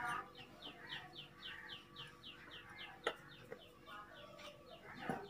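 Faint, rapid run of short high chirps from a bird, about four a second, each dropping slightly in pitch. A single light click comes about three seconds in.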